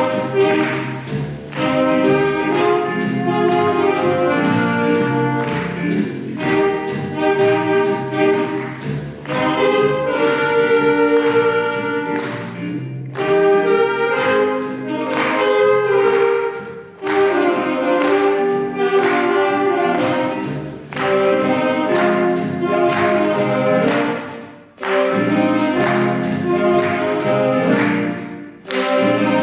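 Saxophone ensemble playing a slow melody over a steady beat, with short breaks between phrases near the end.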